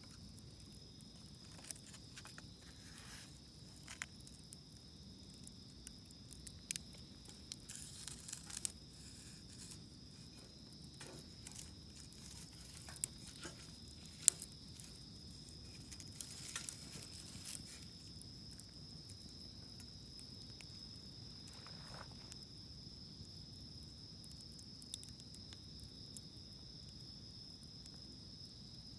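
Insects chirring steadily at a high pitch, with a wood campfire's sparse crackles and pops, one sharp pop about halfway through.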